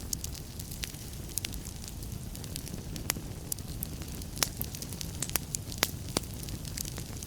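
Wood fire burning in a fireplace: a steady low rumble and hiss of the flames with sharp, irregular crackles and pops.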